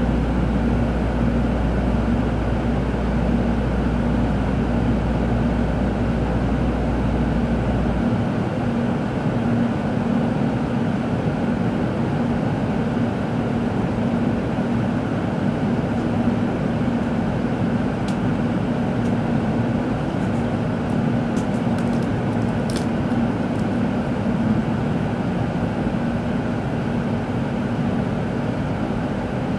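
Steady running noise inside a Tōkaidō Shinkansen car: an even rumble with a constant hum, the deepest part of the rumble dropping away about eight seconds in, and a few faint ticks about two-thirds of the way through.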